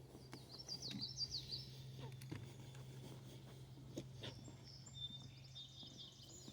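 Wild birds singing, a quick run of high chirps in the first second or two and more high notes later, over a steady low hum. Footsteps on a wooden boardwalk knock about once a second.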